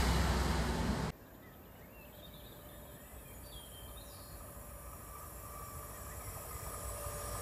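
The fading noise of a train that has just passed, cut off abruptly about a second in. Then a quiet trackside background with a few bird chirps, and the rumble of the next train approaching, growing steadily louder.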